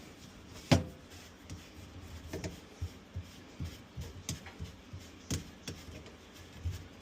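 Sink drain pipes and fittings being handled and worked loose, giving irregular knocks and clicks. The sharpest knock comes just under a second in.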